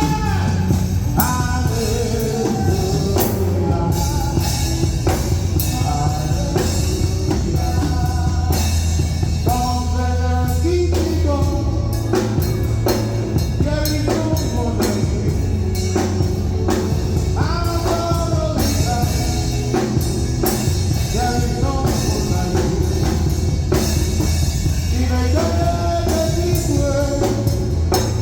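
A worship song: a voice singing over a band with drum kit and a steady bass line.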